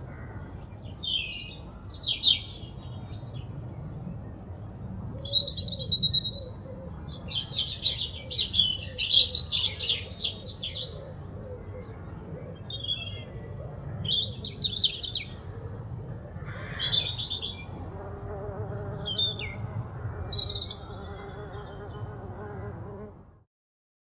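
Songbirds singing and chirping in short, repeated phrases over a steady low outdoor rumble. A faint steady hum comes in for the last few seconds, and the sound cuts off suddenly near the end.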